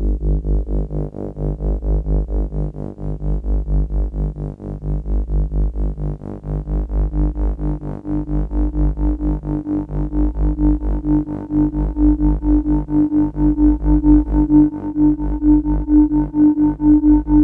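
Yamaha CS-40M analog synthesizer sustaining a one-note deep bass drone, ring-modulated and pulsing evenly from its LFO about three times a second. A higher tone in the drone grows stronger from about halfway through.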